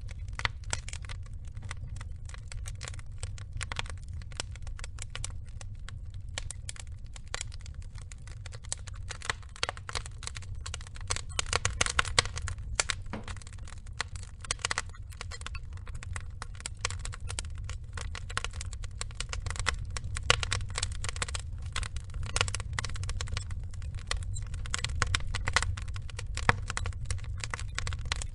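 Wood logs burning, crackling and popping continuously over a steady low rumble, with busier bursts of crackles about midway and again later on.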